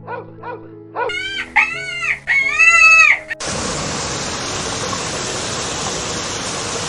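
Background music with a run of short animal calls and then several louder calls that rise and fall in pitch. About halfway through, a steady hiss takes over and lasts to the end.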